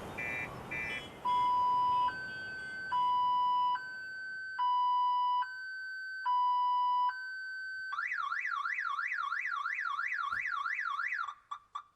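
Car alarm cycling through its tones: a few rapid beeps, then a slow two-note hi-lo wail switching about every 0.8 s, then a fast rising-and-falling whoop that cuts off near the end.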